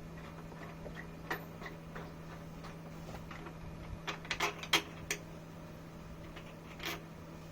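Scattered light clicks and taps, with a quick run of them about four to five seconds in, over a steady low hum.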